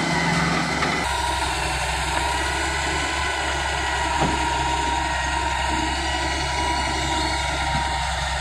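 Tractor engine running steadily, with a steady high whine above it. The sound changes abruptly about a second in.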